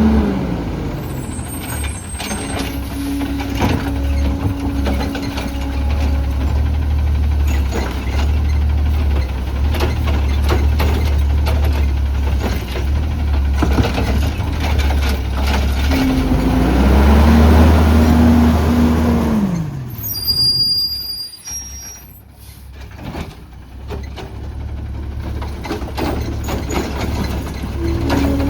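CNG Autocar ACX garbage truck with a Heil Rapid Rail side-loader body running, its hydraulics whining twice: the second whine rises, holds for about three seconds and falls away past the middle. A short hiss of air follows, and the engine then runs quieter.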